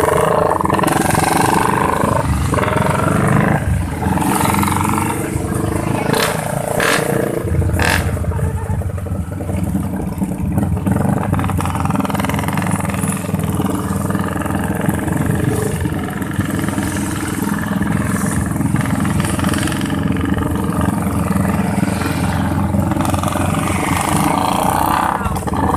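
Motorcycle engine with an aftermarket racing exhaust running steadily, with a few sharp knocks about six to eight seconds in.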